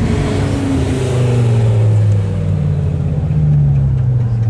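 Car engine and exhaust revving: the revs fall away, hold steady, then climb again before dropping near the end.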